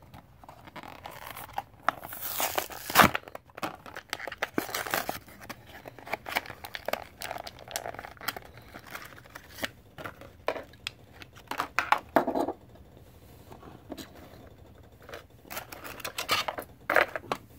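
Packaging of a diecast model car being opened by hand: cardboard and plastic tearing, crinkling and clicking in irregular bursts, with a sharp snap about three seconds in.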